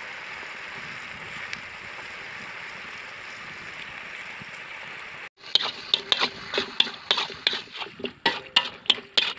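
Chicken intestines sizzling steadily in hot oil in a large steel wok. After a short break about five seconds in, a spatula stirs and scrapes the wok in quick repeated strokes.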